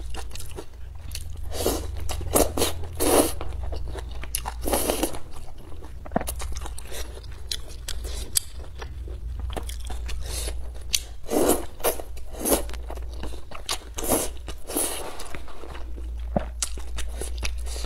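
Close-miked eating sounds: chewing and biting mouthfuls of thick, saucy stir-fried rice noodles, with many wet mouth clicks and several short louder bursts spread through.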